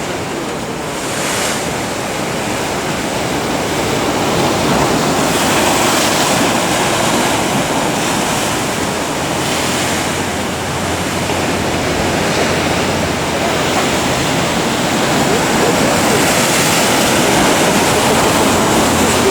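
Ocean surf breaking in a continuous rush, swelling louder a few seconds in and again near the end.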